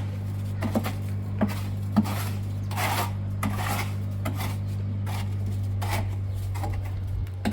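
Irregular metallic scraping and clinking strokes, about one or two a second, over a steady low hum.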